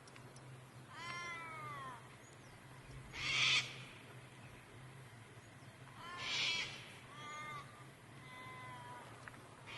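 Kangal dog whining: a series of high-pitched whines, some falling in pitch, with two louder, harsher yelps about three and six seconds in.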